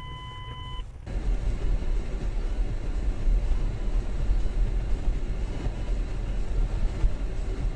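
A short electronic beep lasting about a second. About a second in it gives way to the steady low rumble of a car driving, engine and road noise heard through a dashcam microphone.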